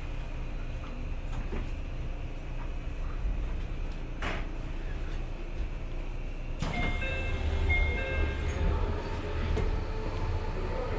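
Electric commuter train running, a steady low rumble heard from the cab, with a sharp click a little after four seconds. About two-thirds of the way through, a louder rumble starts abruptly, with brief high whining tones over it.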